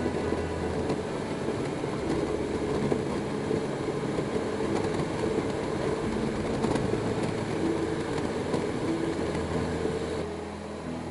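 BMW R1250GS boxer-twin motorcycle under way: the engine runs steadily under a continuous haze of wind and road noise. The sound drops quieter about ten seconds in.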